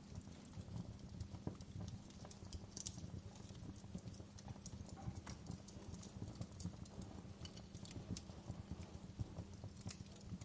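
Fire crackling: irregular snaps and pops, some sharper than others, over a steady low rumble.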